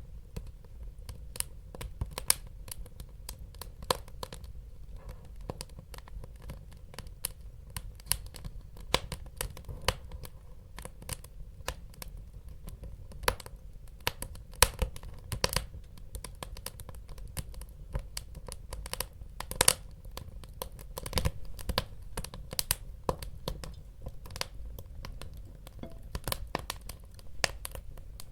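Wood fire burning in a fireplace, crackling with irregular sharp pops and snaps over a low steady rumble of flame; a few louder pops stand out about midway and about two-thirds of the way in.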